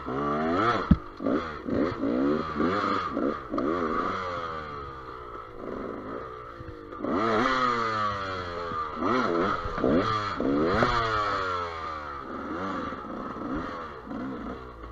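GasGas EC200 two-stroke enduro motorcycle engine revving up and down in short repeated bursts as the throttle is worked, with a sharp knock about a second in.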